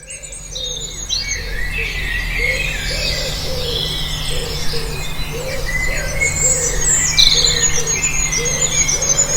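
Many birds chirping and singing together, with a lower call repeated steadily throughout; the sound fades in over the first second.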